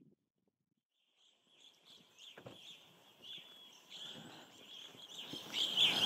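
Evening grosbeak calling: a series of short, clear chirping notes that starts about a second in and grows louder, loudest just before it cuts off suddenly at the end, over faint background noise.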